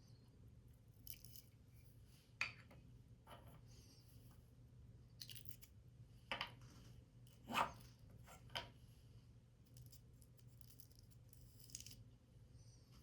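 Quiet handling of paper and card: a few soft, scattered clicks and rustles, the sharpest about seven and a half seconds in, over a faint steady low hum.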